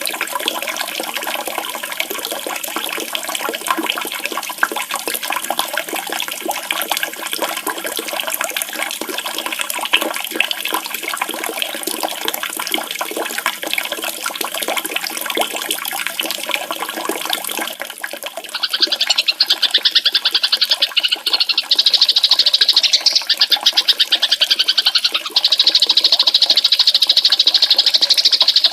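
Running water, a steady rush with splashing. About eighteen seconds in it gives way to a loud, fast, buzzy songbird trill, high-pitched and repeated with brief breaks.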